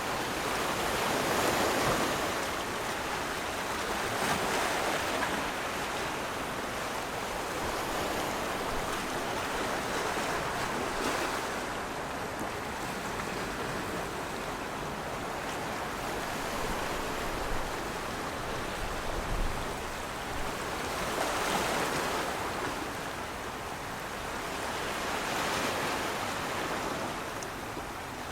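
Surf: waves washing in, a rushing noise that swells and eases every few seconds.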